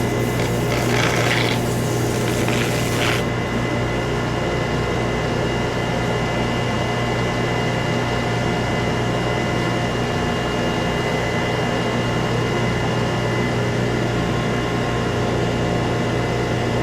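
Wood lathe running steadily with a low hum and several steady tones while the spinning bowl base is rough-sanded with 80-grit sandpaper. A high hiss over the hum in the first three seconds cuts off suddenly.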